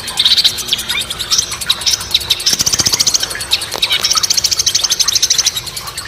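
Songbirds calling over one another: sharp chirps and two rapid, buzzy, high-pitched trills, the second lasting about a second and a half.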